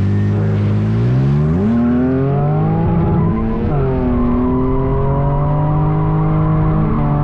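Drift car engine under hard throttle, revs climbing, dropping sharply about three and a half seconds in, then held steady at high revs.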